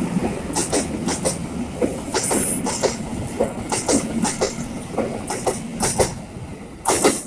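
Passenger train coaches rolling past, the wheels clicking and clunking irregularly over the rail joints over a steady rumble. There is a brief high squeal a couple of seconds in and a louder clank near the end.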